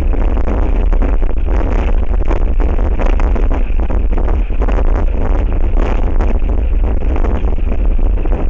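Strong wind buffeting the outdoor nest camera's microphone: a loud, steady, gusting rumble.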